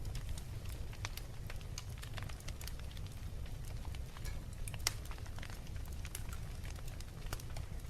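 Wood fire crackling, with scattered sharp pops over a steady low rumble; the loudest pop comes about five seconds in.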